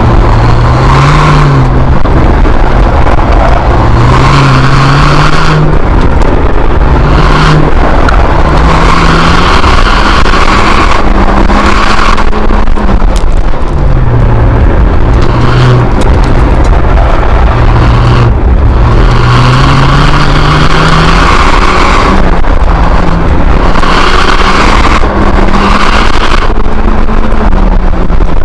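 Ford Fiesta ST's turbocharged four-cylinder engine, heard loud from inside the cabin while the car is driven hard, revving up and dropping back over and over as the driver accelerates, lifts and brakes.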